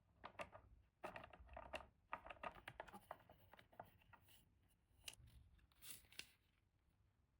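Faint crinkling, scratching and clicking of toy packaging being handled and opened. The noises come thick and fast for the first three seconds, then thin out into scattered clicks.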